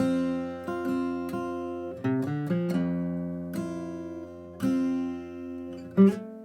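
Acoustic guitar with a capo at the first fret playing a single-note melody line: about ten notes plucked one after another, each ringing out and fading, with a low note sounding underneath.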